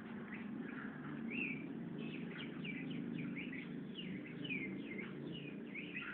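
Sooty-headed bulbul (kutilang) calling: a run of short, quick chirps, busiest in the second half, over a steady low hum.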